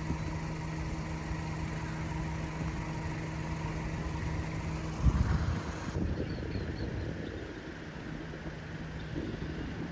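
Car engine idling with a steady hum for about five seconds. Then a loud low thump, and the hum stops, leaving a low, uneven rumbling noise.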